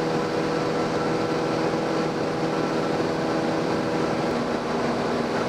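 Cessna 172M's four-cylinder Lycoming O-320 engine and propeller droning steadily in level cruise: an even hum with a steady set of tones.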